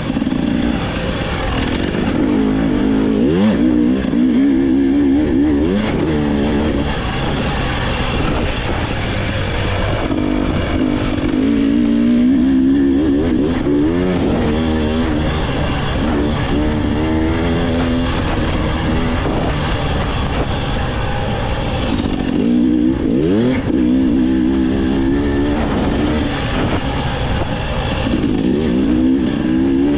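Enduro dirt bike engine running hard under racing throttle, its pitch repeatedly climbing and dropping as it revs up and shifts, with a steady rush of noise underneath.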